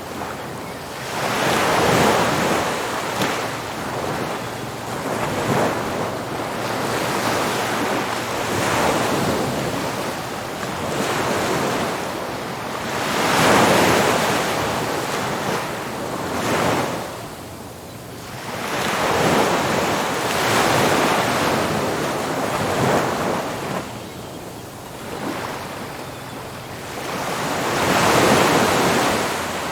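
Ocean surf crashing powerfully on a beach: rushing swells of noise that build and fade every few seconds, with the biggest breakers about two, thirteen, twenty and twenty-eight seconds in.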